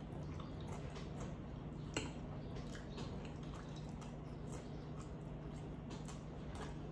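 Close-miked wet chewing of cheesy chicken pasta: soft squishy mouth sounds and small clicks, with one sharper click about two seconds in, over a steady low hum.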